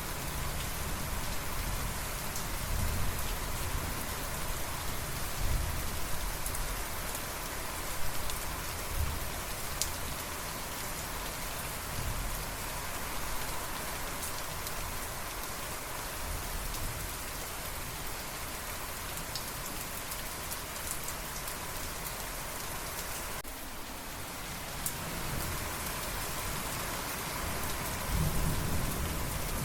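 Steady rain pattering with low rolls of thunder rumbling underneath, swelling several times and most strongly near the end.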